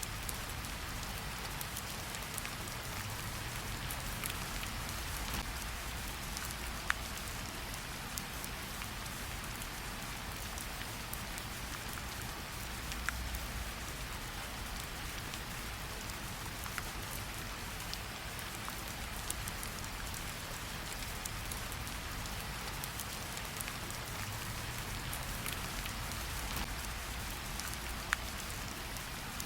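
Steady gentle rain pattering on tree leaves, an even hiss with scattered drops and a few louder single drips ticking through.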